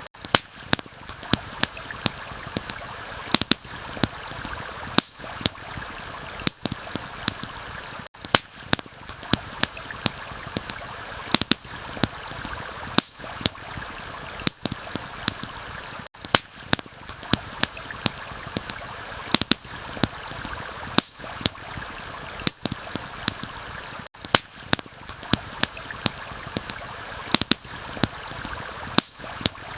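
Campfire crackling with irregular sharp pops, several a second, over a steady rush of flowing water. The level dips briefly about every eight seconds.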